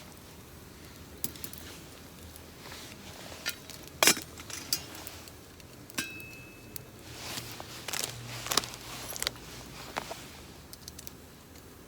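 Irregular light metallic clinks and knocks of camping gear being handled, with the sharpest knock about four seconds in and a short ring about six seconds in.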